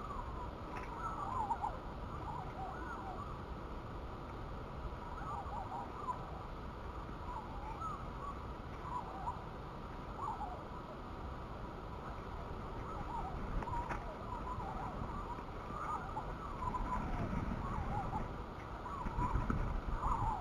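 Birds calling in short, scattered chirps over a steady low rumble that grows louder in the last few seconds.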